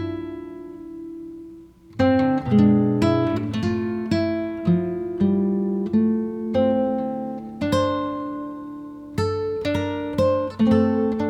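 Acoustic guitar music: plucked and strummed chords, each struck sharply and ringing out. The music dies away once, about two seconds in, then resumes.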